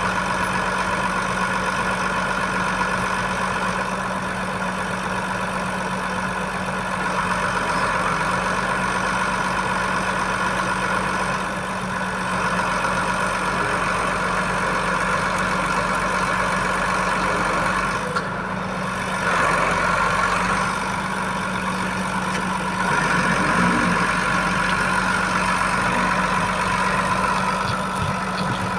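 Truck's diesel engine running steadily at an even idle-like speed, with small rises and falls in loudness.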